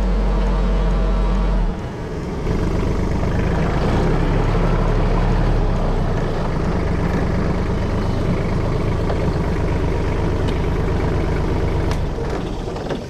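Kubota KT215 tractor's diesel engine running steadily; it drops briefly about two seconds in, picks up again, and fades away near the end.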